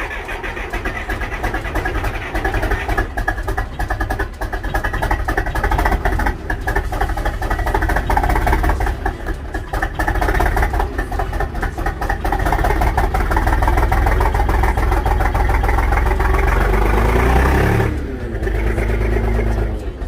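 Zetor tractor diesel engine running just after a cold start in freezing weather, with a heavy rapid clatter. It picks up about three seconds in, revs up and back down near the end, and then settles into a steadier idle.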